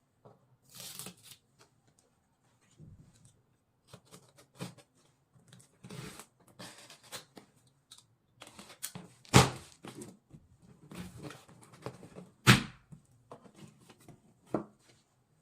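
Cardboard box and packaging being opened and handled: scattered rustling, tearing and scraping, with two sharp knocks, one a little past halfway through and another about three seconds later.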